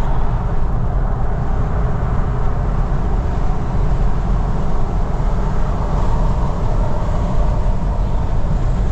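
Steady road and engine noise heard inside a moving vehicle's cabin: an even, deep rumble with no changes or sudden sounds.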